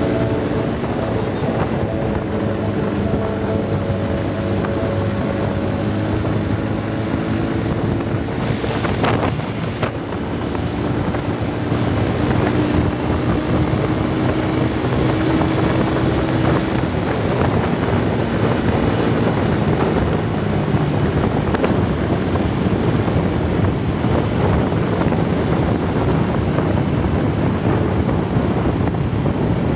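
Motorcycle ridden at high speed: the engine runs steadily under heavy wind rush on the microphone. Its tones fade under the wind noise about halfway through.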